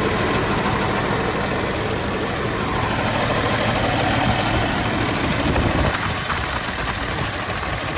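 John Deere 6081H 8.1-litre six-cylinder diesel engine idling steadily.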